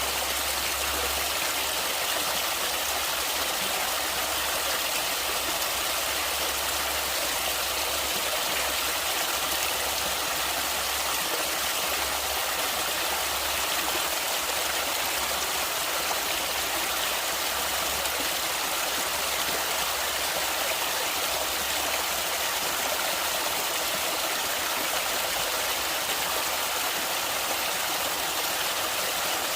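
Natural running water, a stream or waterfall, flowing steadily with an even rushing noise.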